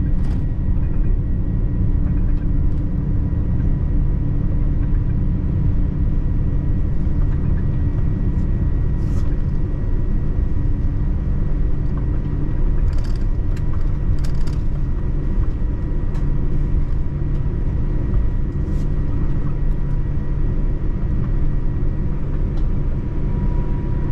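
Steady low rumble of a vehicle in motion, with a faint steady high tone above it and a few faint ticks.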